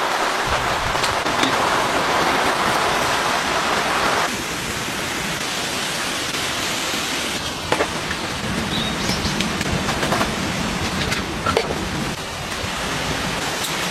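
Steady rain falling, an even hiss with a few scattered sharp taps of drops. About four seconds in the sound changes abruptly and turns quieter and duller.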